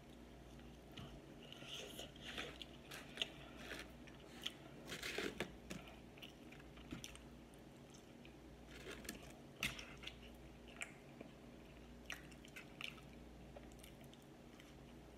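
Close-miked chewing and lip-smacking of a person eating sauce-covered fried chicken wings and French fries: irregular wet smacks and clicks, with a denser run of them about five seconds in.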